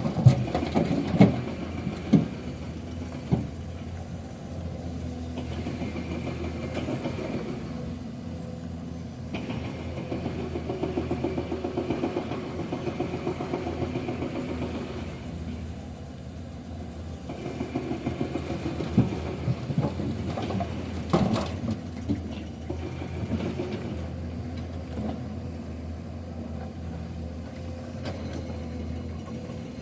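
Heavy diesel engines of dump trucks and loading machinery running, with a rhythmic pulsing stretch as an engine works harder. Several sharp knocks sound in the first few seconds and again about twenty seconds in.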